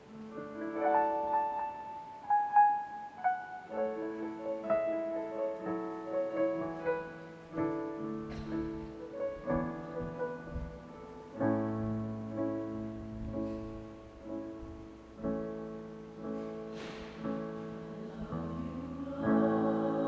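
Piano playing a slow introduction of melody and sustained chords, growing fuller near the end as the accompaniment leads into the choir's entry.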